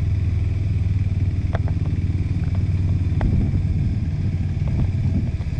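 KTM 390 Adventure's single-cylinder engine running steadily at low revs on a muddy trail. A few sharp knocks and some clatter come between about one and a half and three seconds in.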